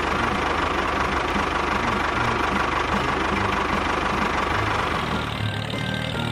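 Tractor engine running steadily with a regular knocking chug. About five seconds in it thins out and music comes in.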